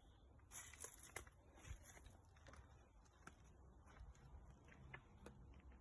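Near silence, with faint rustling and scattered light clicks, a little louder about half a second in.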